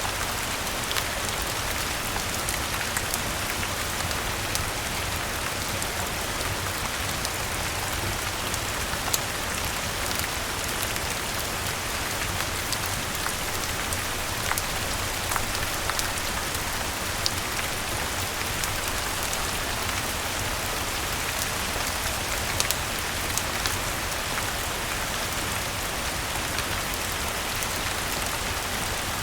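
Steady rain falling on a surface, an even hiss scattered with many short sharp ticks and pops.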